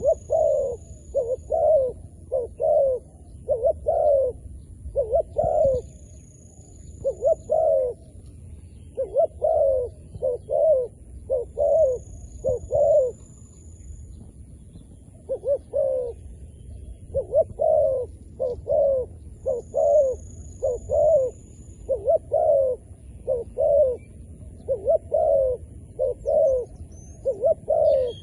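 Zebra dove calling: a long run of short, quick coo notes in rapid clusters, with brief pauses between runs.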